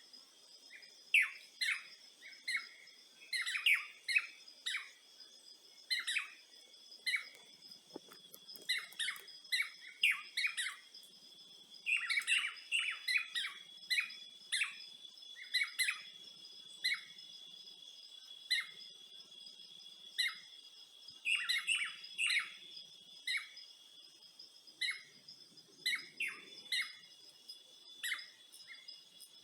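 Wild birds chirping in many short, quick calls throughout, over a steady high drone of insects such as crickets or cicadas.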